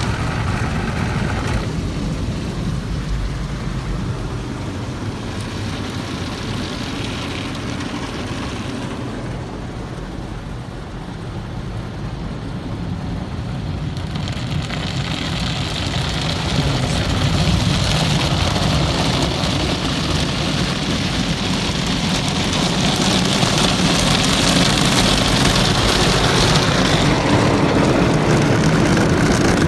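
Automatic tunnel car wash heard from inside the car: water spraying and washing equipment working against the body in a steady rushing hiss, which grows louder about halfway through.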